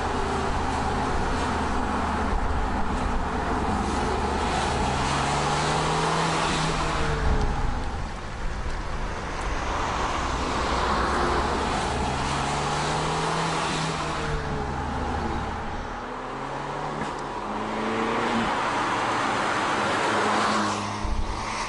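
Abarth 500C's 1.4 T-Jet turbocharged four-cylinder engine accelerating hard, its pitch rising in several long pulls through the gears, with road and wind noise as the car drives by.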